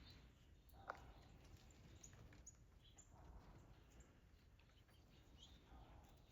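Faint, scattered short bird chirps over a near-silent background, with a single sharp click about a second in.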